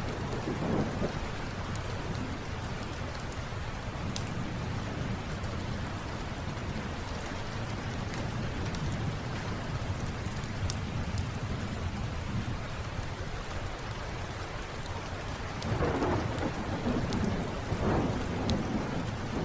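Steady rain with rolling thunder that swells louder twice near the end, and scattered sharp crackles from a fireplace on top.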